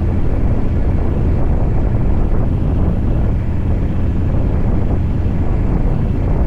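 Scania V8 diesel truck engine running steadily while the truck drives loaded: a deep, even drone with no change in pitch.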